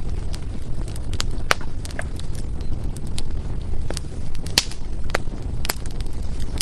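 Wood fire burning in a fireplace: a steady low rumble of the flames with sharp, irregular crackles and pops from the burning logs, a few louder snaps standing out.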